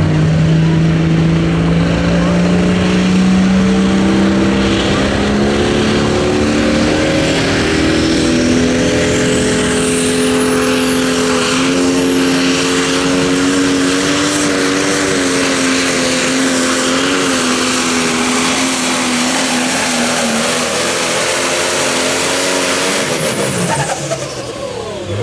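Turbocharged diesel pulling tractor under full load: the engine note climbs slowly and steadily while a high turbo whine rises over the first several seconds and then holds. Near the end the engine and the whine drop off sharply as the pull ends.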